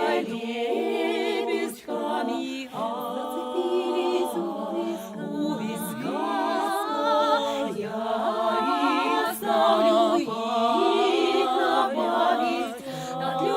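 Female vocal ensemble singing a cappella in harmony: several voices holding long notes with strong vibrato, with brief breaks for breath between phrases.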